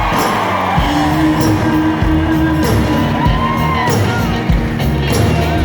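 Live band playing an instrumental stretch, with held bass notes under steady drum hits. Whoops and whistles come from the audience over the top.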